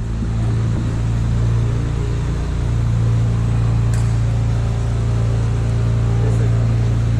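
A steady machine hum: a motor or fan running continuously, a low drone with several faint overtones, and one faint click about four seconds in.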